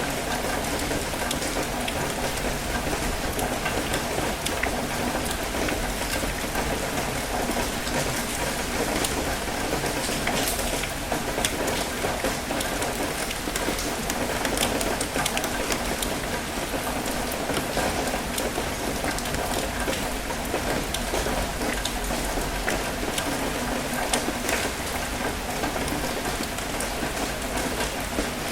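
Steady rain falling, a continuous hiss with many small drops ticking through it, mixed with gentle ocean waves washing over rocks.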